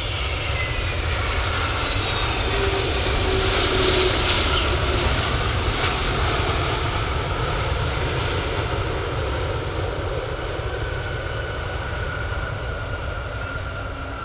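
Airliner's engines passing close by, swelling to their loudest about four seconds in and then slowly fading, with a high whine that falls in pitch as the plane goes past.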